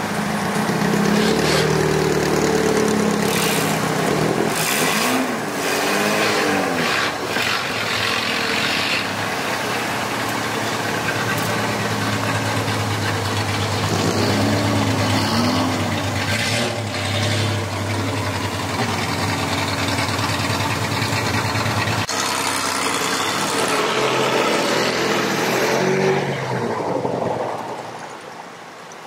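Engines of classic Showa-era Japanese cars running as they roll slowly past in a line, with a steady low drone and the throttle blipped up and down a few times, about five seconds in and again around fourteen seconds in. The sound changes abruptly around twenty-two seconds and drops away near the end.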